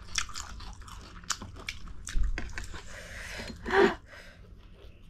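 Close-miked chewing and biting of spicy ramen noodles: a run of wet mouth clicks and smacks, with one louder mouth sound just before the end.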